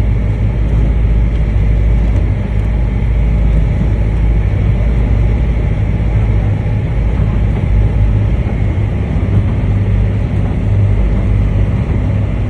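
Steady low drone of a small passenger ferry's engine, heard aboard, with a constant deep hum and wash of noise and no change in pitch.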